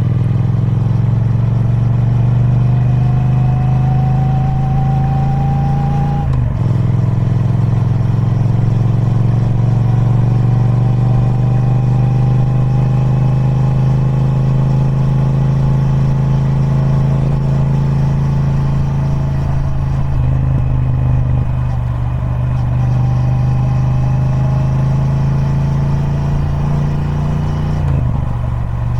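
Triumph Speed Twin 1200's parallel-twin engine on its stock exhaust, pulling under load with the pitch slowly climbing. The pitch drops suddenly about six seconds in and again near the end, as on an upshift.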